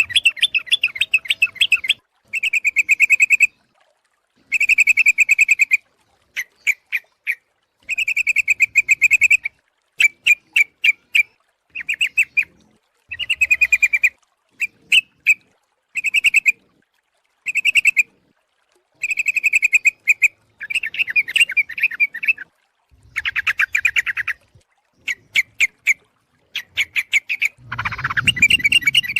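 Yellow-vented bulbul (trucuk) calling: loud, bubbly chattering phrases about a second long, repeated with short gaps, some broken into quick strings of separate notes. It is a lure call, a female calling to a male. Near the end a longer, denser burst comes with a low rumble underneath.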